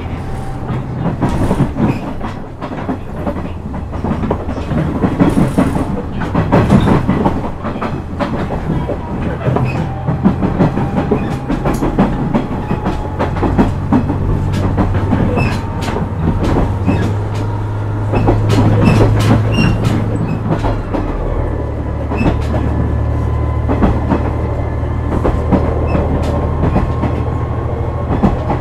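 KiHa 126 series diesel railcar running, its engine droning steadily under the click of wheels passing over rail joints. The engine note changes about two-thirds of the way through.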